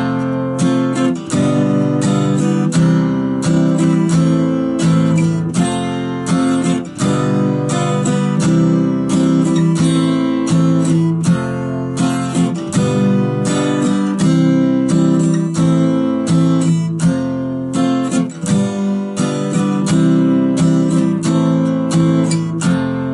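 Acoustic guitar strummed in a steady, repeating pattern at a slow tempo, moving through the chords F, G7, C and A minor.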